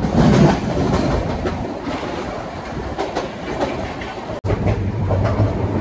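Passenger express train in motion, its wheels clattering over rail joints under a steady rumble. A sudden break about four and a half seconds in, after which a steady low hum runs under the clatter.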